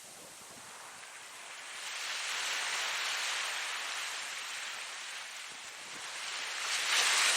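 Ocean waves washing onto a shore: a steady hiss that swells at about two seconds, eases off, then surges to its loudest as a wave breaks near the end.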